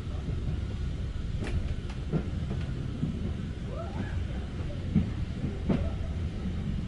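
Heritage railway train running along the track: a steady low rumble with several short, sharp knocks from the wheels and running gear.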